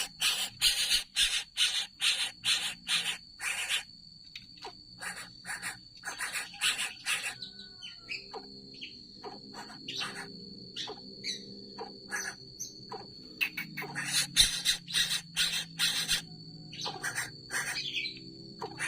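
Young coucal calling in rapid series of short, harsh calls, about three or four a second. The calls come in a run at the start and again in the second half, with scattered single calls between.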